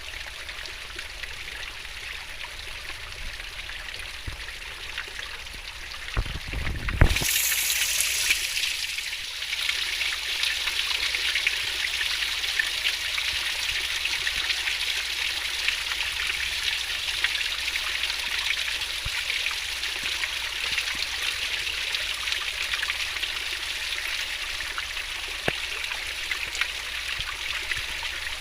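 Fast-flowing river water babbling and rushing steadily. About seven seconds in there is a low rumble and a sharp knock, and from then on the water is louder and brighter.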